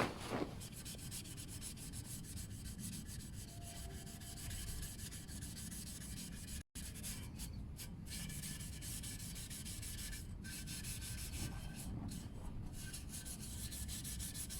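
Scouring pad scrubbed rapidly back and forth on a stainless steel motorcycle exhaust pipe: a steady, rasping rub that cuts out for an instant about halfway.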